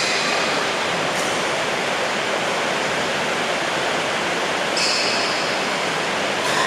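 Heavy rain pouring down in a steady, even rush. A brief high squeak about five seconds in.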